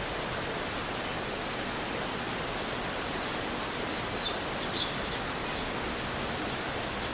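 Stream water rushing steadily over rocks. Two or three faint, short high chirps come about four and a half seconds in.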